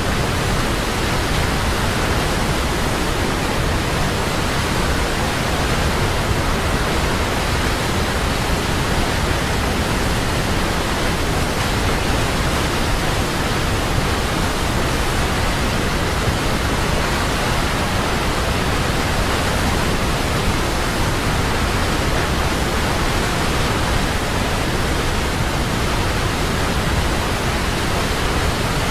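Large waterfall: a steady, unbroken rush of falling water, an even noise from deep rumble to high hiss.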